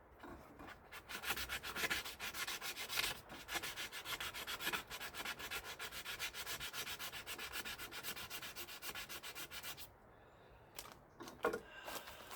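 Hand sanding of a small metal car part: rapid, even back-and-forth strokes of an abrasive that stop about ten seconds in.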